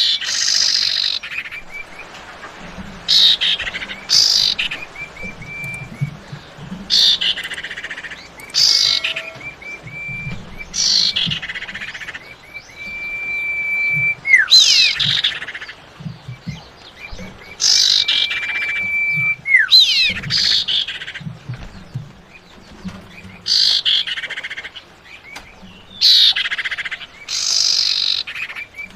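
Female common iora (cipau) calls used as a lure to draw a male. There are short high chattering bursts every few seconds, and several long steady whistles, each held for about two seconds and ending in a quick downward slide.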